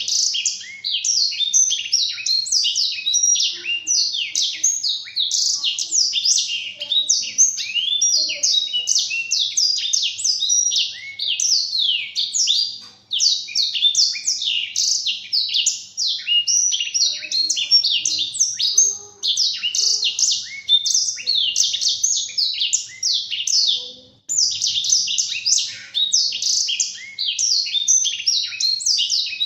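Black-throated canary (blackthroat) singing a long, fast warble of quick falling chirps and trills, high-pitched, with only brief breaks twice.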